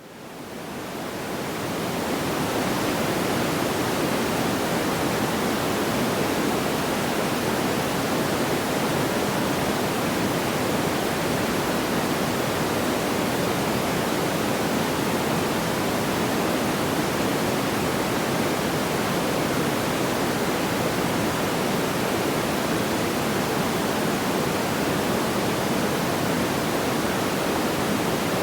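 Steady, even rushing noise with no crackles or pops, fading in over the first two seconds after a brief dropout.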